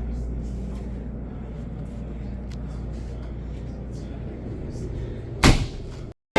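A steady low rumble with faint scattered clicks, then a short loud rush of noise near the end that cuts off suddenly.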